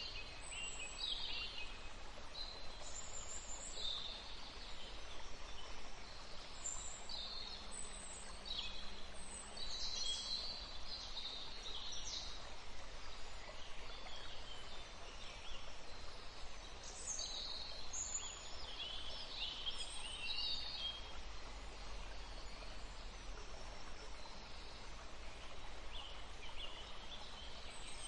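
Many small birds chirping and calling in short, high notes, scattered through a steady hiss of outdoor ambience.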